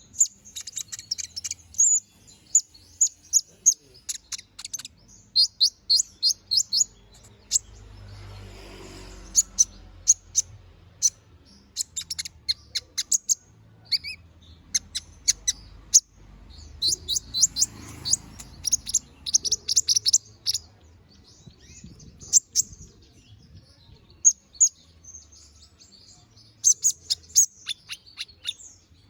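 Domestic canary singing in long, rapid phrases of high trills and chirps, with short pauses between phrases.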